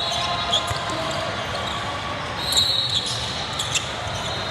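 Basketball game in a gym: a ball bouncing on the court with short knocks, high squeaks twice, and a steady background murmur of players and spectators.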